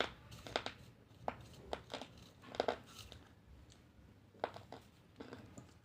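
Irregular light clicks and crinkling rustles of small things being handled, about a dozen short sounds in a few clusters.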